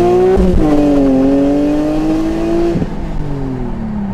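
BMW E46 M3's S54 straight-six, breathing through a 6-into-1 exhaust, pulling hard with its pitch rising. About half a second in there is a quick upshift, then the engine pulls steadily. Near three seconds the driver lifts off and the revs fall away.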